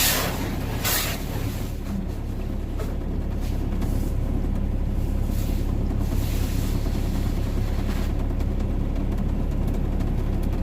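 Semi truck's diesel engine idling steadily, heard from inside the cab, with hissing bursts of rinse spray hitting the truck at the start, about a second in, and again around six and a half seconds in.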